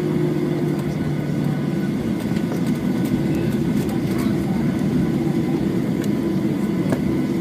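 Steady drone of a Boeing 737-8's CFM LEAP-1B jet engines heard inside the passenger cabin, with a thin steady whine above it.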